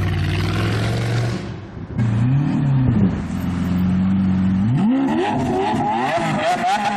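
Supercar engine running steadily, given a quick rev blip, then revved hard and accelerating, its pitch climbing steeply and wavering high near the end.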